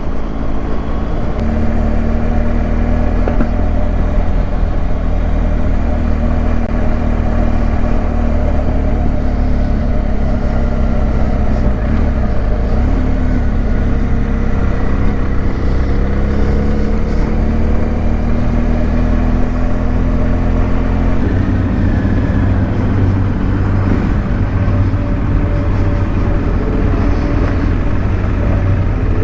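Motorcycle engine running under way, its note rising and falling with the throttle. The engine note changes about two-thirds of the way through.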